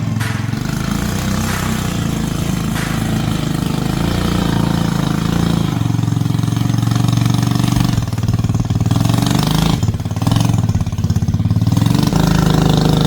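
Small 125cc Chinese single-cylinder engine of a tracked mini bike running under load, its speed shifting. Slower, distinct firing pulses come from about 8 to 12 seconds in as the motor works hard to push the tracks through slush.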